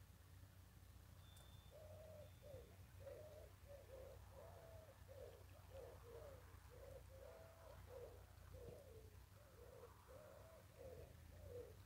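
Faint bird calls: a run of short, low notes repeated at an even pace, starting about two seconds in, over a low steady rumble.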